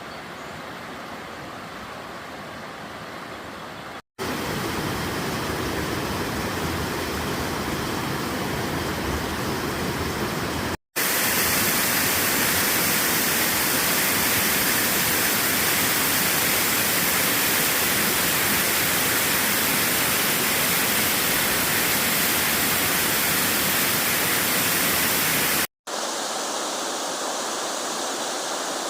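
Steady rushing water of a waterfall, heard in several clips joined by abrupt cuts. The middle stretch, from about 11 to 26 seconds in, is the loudest.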